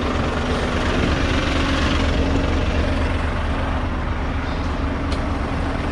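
Scania V8 diesel truck engine idling steadily: a constant low rumble with a steady hum.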